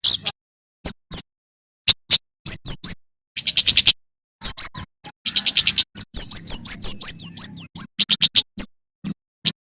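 Male prenjak keres (kemade) singing: a string of sharp, high chirps and rapid trills in quick bursts with short pauses, many notes sliding down in pitch.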